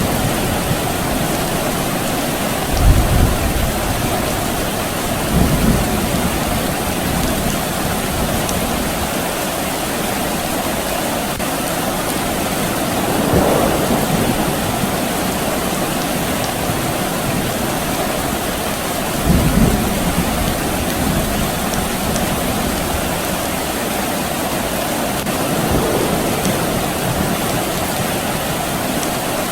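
Steady soft rain falling, with short low rumbles of distant thunder rising out of it several times.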